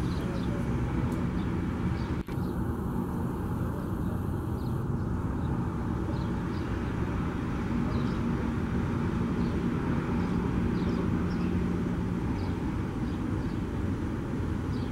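Metrolink commuter train running on an elevated flyover, heard as a steady low rumble and hum, with faint high chirps now and then and a brief dropout about two seconds in.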